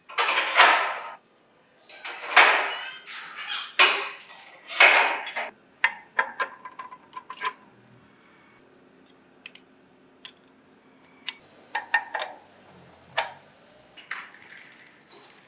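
Workshop handling noises: several short, loud clanks and scrapes of metal parts in the first six seconds, then lighter scattered clicks and knocks.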